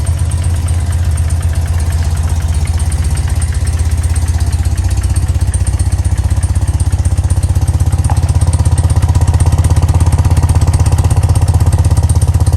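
1995 BMW R100GS Paris-Dakar's air-cooled flat-twin (boxer) engine idling with a steady, even low pulse, getting a little louder about two-thirds of the way through.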